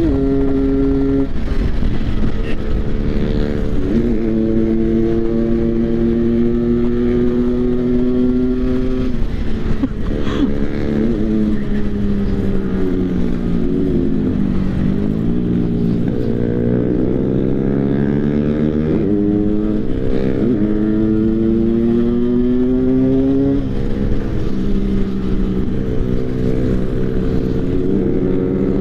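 Motorcycle engine held at high revs in a full-throttle run: the pitch climbs slowly, then drops and climbs again several times as it shifts gears. Near the middle it eases off briefly and then pulls back up.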